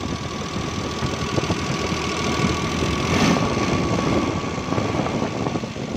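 Suzuki Bolan's 796 cc three-cylinder petrol engine idling steadily, heard close to the open oil filler on the valve cover. It is freshly rebuilt with new piston rings, and oil is circulating to the valve gear.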